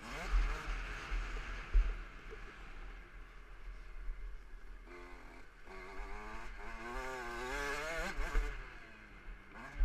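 KTM 65 SX two-stroke single-cylinder engine revving as the bike rides, with heavy wind buffeting on the microphone and a few sharp knocks early on. About five seconds in the engine note climbs and wavers for a few seconds, then falls away.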